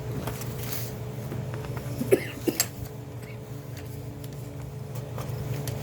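Steady low hum of room noise, with a few sharp knocks and clicks about two seconds in.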